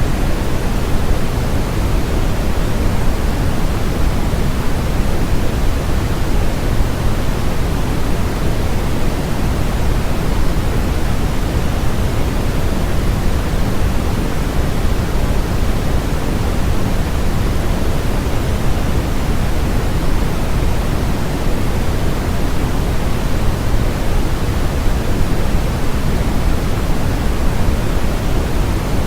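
Steady synthetic noise of the kind sold as white noise for sleep, heavier in the low end than the top, so it sounds like a deep, even rush. It never changes in level or character.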